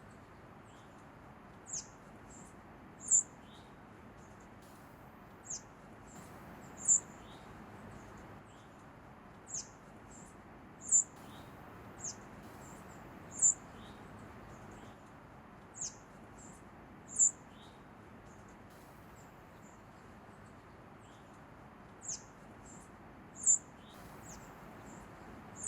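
A small songbird giving short, high, thin chirps, often in pairs of a softer note then a louder one, repeated every few seconds with a pause of a few seconds past the middle.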